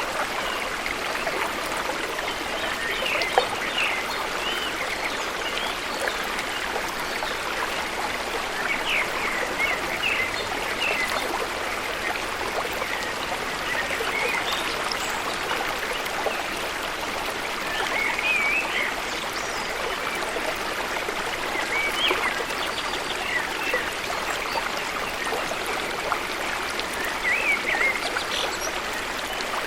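Steady rush of flowing water from the falls and stream, with short bird chirps breaking through now and then and a single sharp click about three seconds in.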